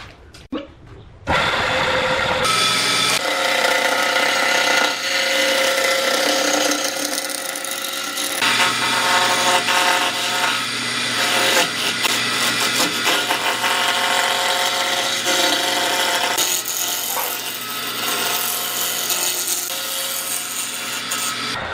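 An electric power tool running and working wood, starting abruptly about a second in and running steadily, with a steady whine over the noise of the cut.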